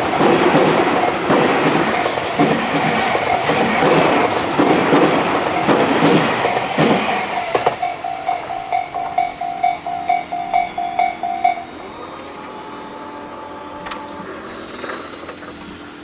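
A Tobu Nikko Line train passes a level crossing, its wheels clattering over the rail joints, with the crossing's warning bell ringing its "kan-kan" underneath. After the train clears, about eight seconds in, the bell rings alone at about three strokes a second, then stops shortly before the end, a sign that the crossing is clearing.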